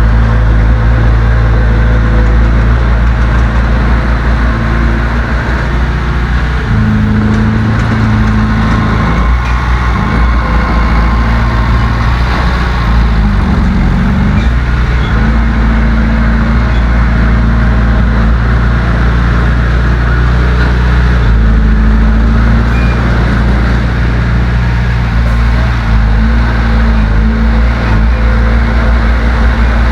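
Heavy diesel engine of earthmoving equipment running steadily and loudly under work, its engine note stepping up about a quarter of the way in, dipping and recovering near the middle, and shifting again about two-thirds through.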